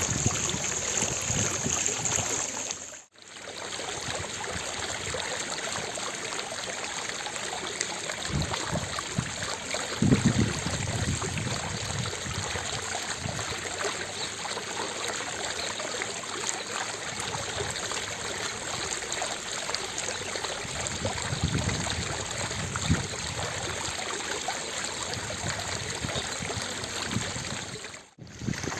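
Fountain water splashing steadily into its basin, an even rushing sound with a few low rumbles. It drops out briefly about three seconds in and again near the end, where the recording is cut.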